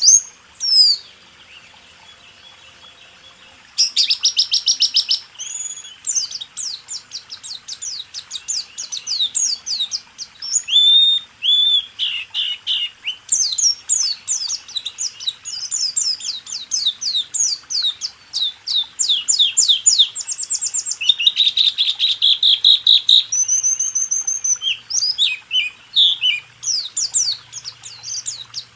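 White-eye (pleci) song in the rapid 'roll tembak' style of a tutor recording: fast runs of high, quick down-slurred notes and short trills. The song falls quiet for a few seconds near the start, then runs on almost without a break.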